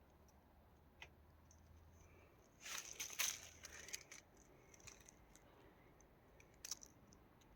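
Faint night quiet broken by a few short crackling rustles, a cluster about three seconds in and a brief one near the end.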